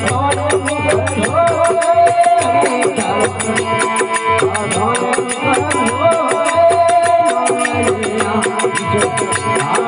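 Rajasthani devotional folk (bhajan) music in an instrumental passage: a fast, steady rhythm of sharp percussive strokes, several a second, under a wavering melody line.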